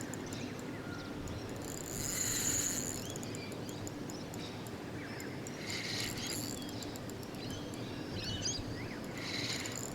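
Outdoor ambience with animal calls: a buzzy call repeats every three to four seconds, with scattered short chirps, over a steady low background rumble.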